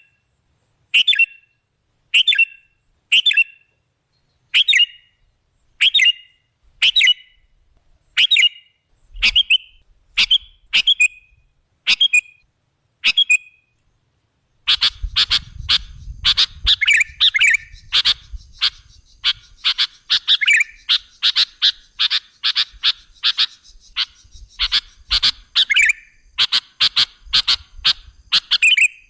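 Sooty-headed bulbul (kutilang) calling: short, sharp calls repeated about once a second for the first half. After a brief pause comes a busier run of rapid, overlapping chattering calls over a low rumble.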